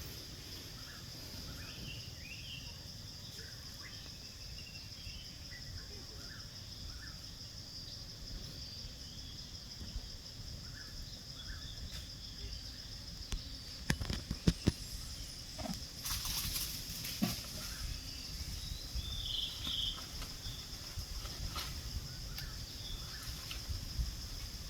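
Outdoor ambience dominated by a steady high-pitched insect drone, with scattered short chirps and a cluster of knocks and rustling bursts about two-thirds of the way through.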